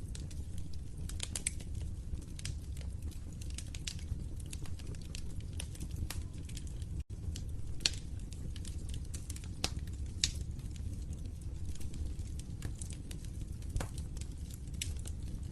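Wood fire crackling and popping irregularly over a steady low rumble of burning, with louder pops about eight and ten seconds in. The sound drops out for an instant about seven seconds in.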